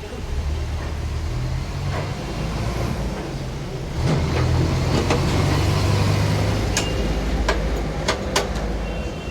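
A motor vehicle engine running, a low rumble whose pitch shifts and grows louder about four seconds in, with a few sharp clicks in the second half.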